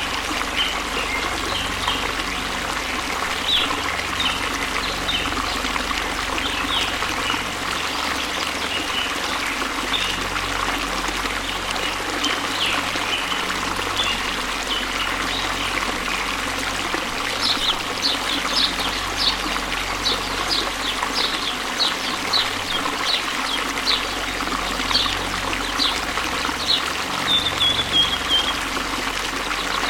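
Waterfall: a steady rush of falling water, with small birds chirping over it. A quicker run of high chirps comes in the second half and ends in a short trill.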